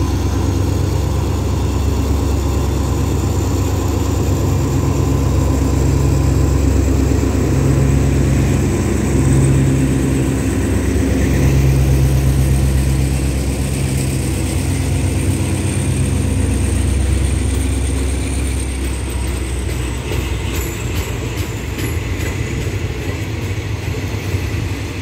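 Alsthom diesel-electric locomotive running into the station with a heavy engine drone, then its carriages rolling past as the train slows to stop. A thin high squeal runs above it. After the engine sound fades, near the end, wheels click rapidly over the rail joints.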